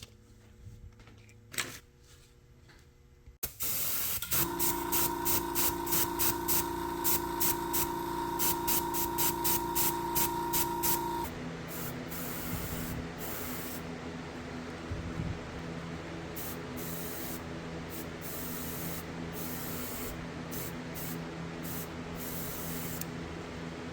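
Spray hiss starting about three seconds in. For the next several seconds a steady hum and a rhythmic pulsing, about two a second, run under it; then the hum stops and a steady hiss continues.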